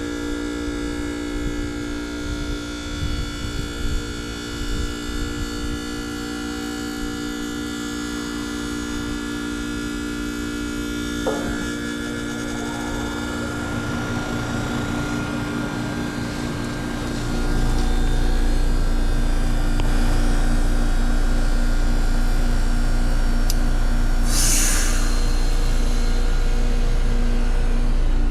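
2013 Trane XR13 2-ton heat pump running through its defrost cycle, the compressor humming steadily. About eleven seconds in the sound shifts, and a pulsing low rumble sets in and grows louder and deeper from about seventeen seconds. A short rush of hiss comes near the end.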